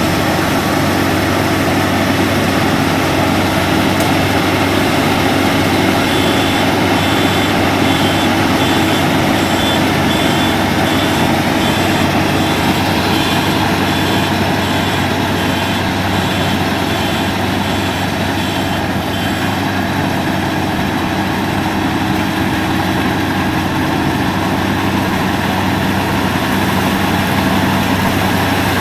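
Rice combine harvester running: a loud, steady engine and machinery drone with an even hum. For about thirteen seconds in the middle a high beep repeats at an even pace over it.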